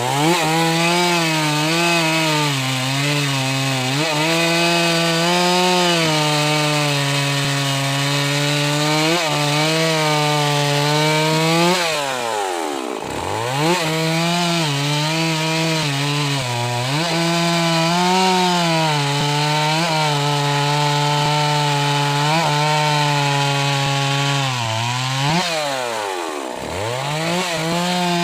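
Stihl MS 381 two-stroke chainsaw running at high revs while cutting wood, its pitch sagging a little under load. Twice, about 13 seconds in and again near the end, the revs drop sharply and climb straight back up.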